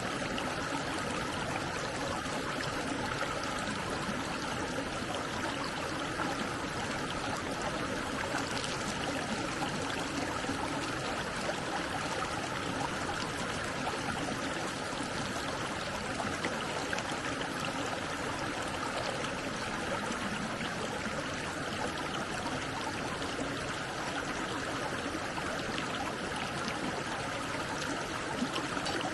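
Stream water flowing with a steady, unbroken rush.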